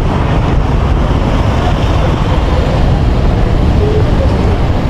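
Steady road traffic noise: a dense rumble of passing cars, buses and trucks, strongest in the low end, with wind buffeting the microphone.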